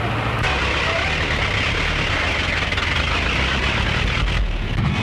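Steady running noise of a moving motor vehicle: a low rumble under a rushing hiss, dipping briefly about four seconds in.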